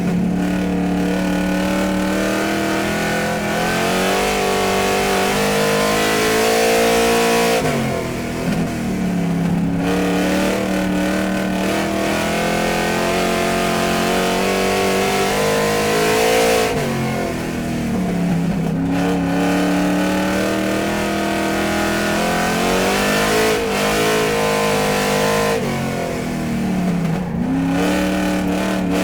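Car engine running, its pitch dipping and climbing back three times, about nine seconds apart.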